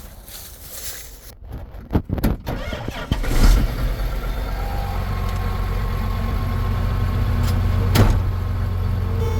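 A few sharp clicks and knocks, then about three seconds in a John Deere 8225R tractor's diesel engine starts and settles into a steady, low idle.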